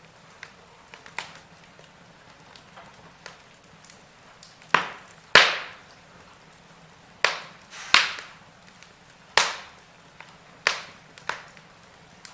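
Wood fire in a fireplace crackling, with sharp pops at irregular intervals over a faint steady hiss. A run of louder pops comes in the second half.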